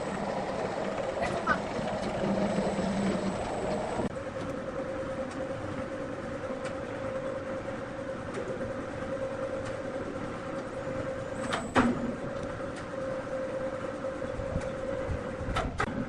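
A large wood-cutting machine running steadily with an even hum, with a single sharp knock about twelve seconds in.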